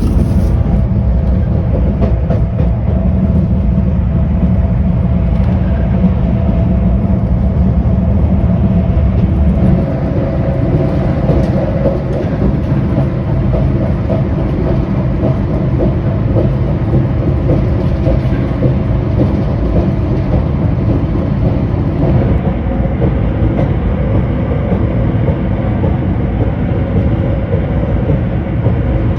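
Afrosiyob high-speed train, a Talgo set, running at speed: a steady rumble with a faint hum, with no change throughout.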